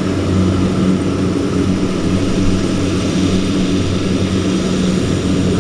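Farm machine's diesel engine running steadily: a constant low drone with an even hum.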